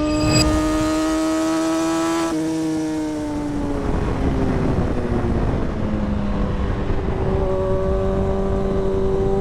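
2017 Kawasaki Ninja ZX-6R's inline-four engine and exhaust under way: the revs climb steadily for about two seconds, then drop suddenly and keep falling off for a few seconds as the throttle is eased. Near the end the engine settles and the revs start to climb gently again.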